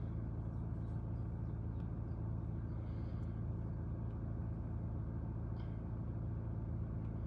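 BMW E82 1 Series engine idling steadily, a low even hum heard from inside the cabin.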